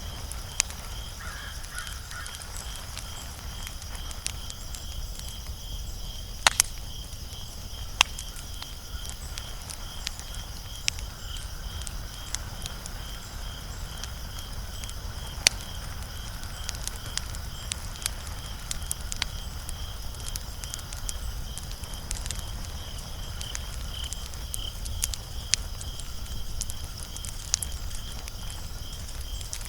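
Wood fire burning with a steady low rumble and sharp, scattered crackles and pops every second or so.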